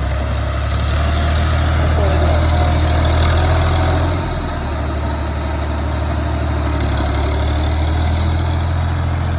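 Farm tractor's diesel engine running steadily with a low, even drone, easing off slightly about four seconds in.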